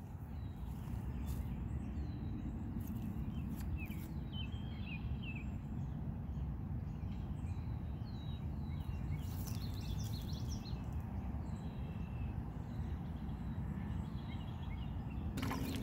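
Small birds chirping in short, scattered calls over a steady low rumble, with a few faint clicks.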